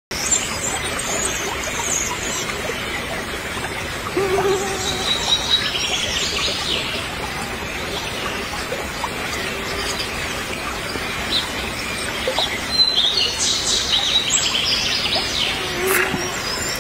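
Birds chirping and calling at intervals over a steady background hiss, with a short water splash near the end.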